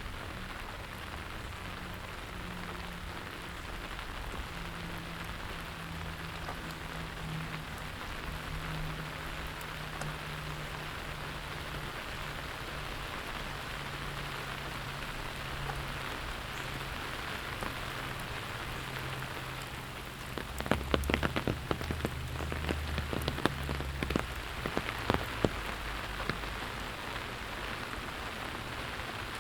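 Steady rain falling on surfaces, with a faint low hum underneath. From about 21 to 25 seconds in, a cluster of sharp taps and knocks with dull thumps rises above the rain and is the loudest part.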